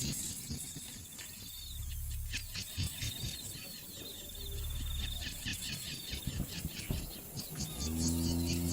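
High, wavering trills and quick sharp chirps of wildlife calling outdoors, with some low rumbling. Low music with steady held notes comes in near the end.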